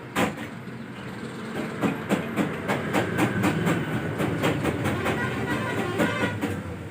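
Metal knocks and clanks as tools work on engine parts during an engine teardown. One sharp knock comes right at the start, then after a short pause comes an uneven run of knocks, about three to four a second, for most of the rest.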